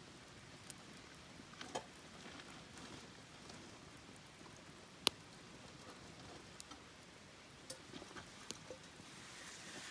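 Wood campfire crackling: a soft steady hiss with scattered sharp pops and snaps, the loudest single pop about five seconds in.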